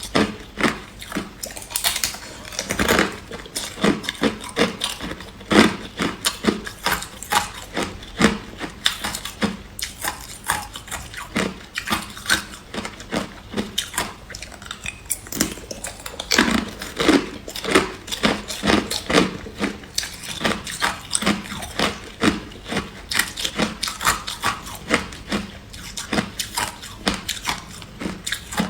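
Hard clear ice being bitten and chewed: a continuous run of sharp, irregular crunches and cracks, several a second.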